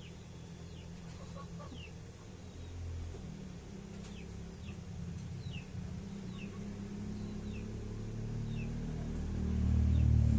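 Chicks peeping over and over, short falling peeps about once or twice a second, over a low rumble that grows louder near the end.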